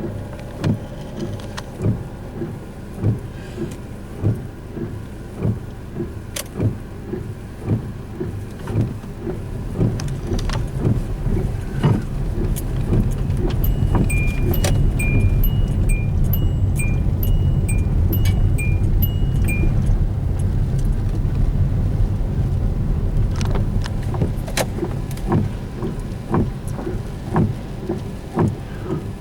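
Severe thunderstorm wind gusting, swelling to a loud low rush for about ten seconds in the middle before easing, over a steady patter of short knocks about twice a second. During the strongest gust a short run of high chime-like tones sounds, alternating between two pitches.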